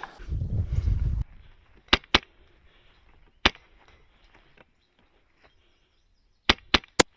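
Airsoft gun firing single shots: six sharp cracks, two close together about two seconds in, one more a second and a half later, and three in quick succession near the end. A low rumble fills the first second.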